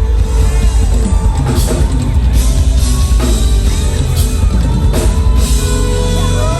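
Loud live R&B band music with heavy bass and a drum kit, cymbals crashing about once a second, and a voice singing gliding runs over it.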